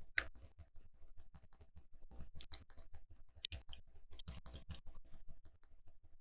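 Small plastic Lego pieces clicking and clattering as they are handled and picked from the sorted pieces, with a series of light clicks and a few louder clusters of clatter.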